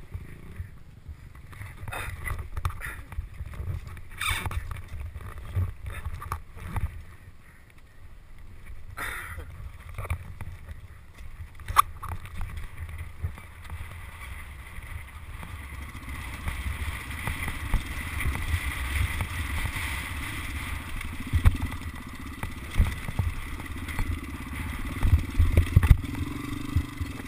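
Dirt bike being ridden, heard mostly as a low wind rumble on the microphone with frequent knocks and bumps; from about halfway a steadier engine-like drone comes in.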